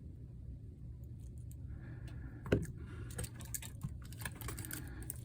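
Small repair tools clicking and tapping against an opened Apple Watch Series 4, irregular light clicks with one louder tap about halfway through, over a steady low hum.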